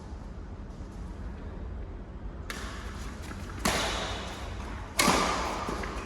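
Badminton rackets striking the shuttlecock in a rally: two sharp hits a little over a second apart in the second half, each followed by a ringing tail in the hall.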